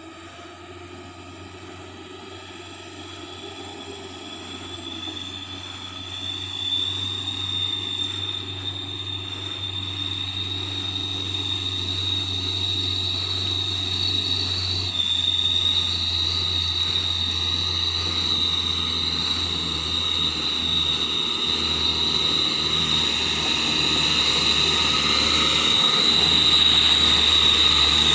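Truck engine running under load on an uphill climb, with a low drone and a steady high-pitched whine, growing steadily louder.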